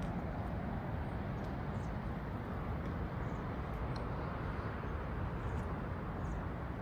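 Steady outdoor background noise, a low even rumble with no distinct events.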